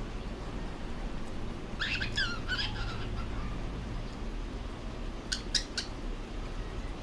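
Cockatiel chirping: a quick run of short high chirps that slide up and down about two seconds in, then three short sharp calls near the end.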